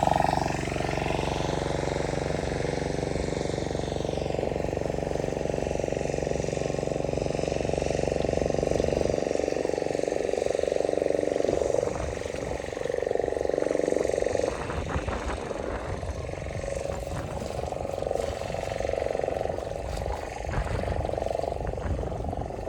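An engine running steadily, with a rougher, uneven noise taking over from about nine seconds in.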